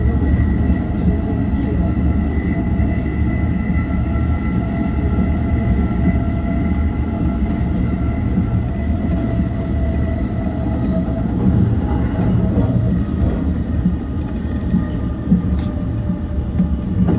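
JR East E235 series electric train running at speed, heard from inside: a steady low rumble of wheels on rail with a steady high whine held over it and scattered light ticks.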